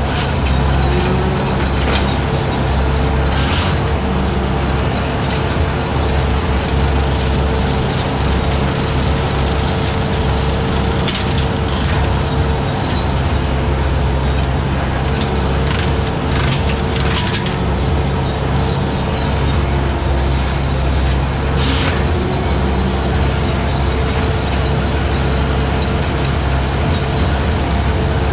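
Skid steer running steadily with its 72-inch brush cutter spinning, mowing long grass. A few short sharp cracks come through now and then.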